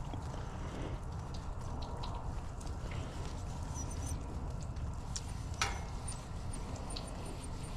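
Light, irregular scratching and small ticks of a Scotch-Brite pad rubbing a furnace flame sensor rod clean, with one sharper click about five and a half seconds in, over a steady low hum.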